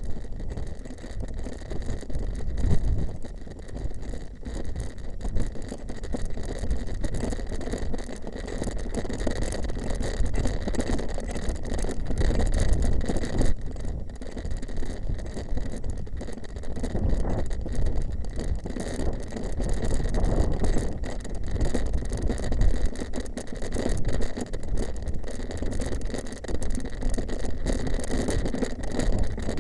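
Mountain bike being ridden over a rough off-road track: tyre noise and the bike rattling and knocking over bumps, with wind buffeting the camera microphone.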